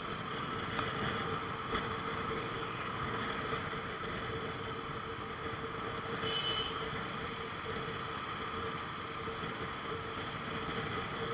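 Steady road-traffic noise with a constant underlying hum, picked up by an action camera's built-in microphone, with a brief high tone about six seconds in.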